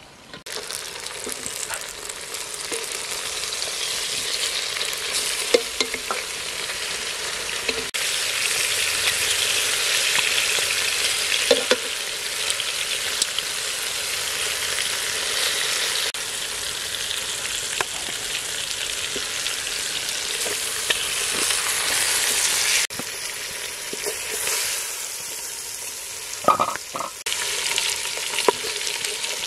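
Frog legs and daikon sizzling as they fry in a metal pot, stirred with a wooden spatula that knocks and scrapes against the pot every now and then.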